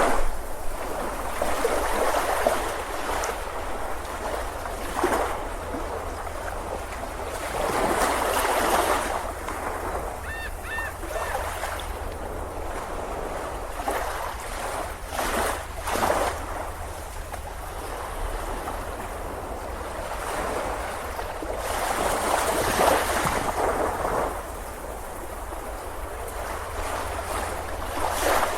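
Waves breaking on a beach: surf washing in and drawing back, swelling and easing every few seconds. A brief high double chirp about ten seconds in.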